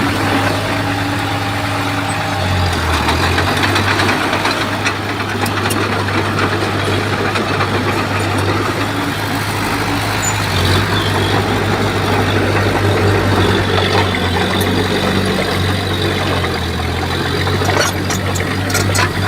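Bulldozer's diesel engine running steadily under work, a constant low hum that shifts pitch slightly a few times. Near the end there are several sharp metallic clanks.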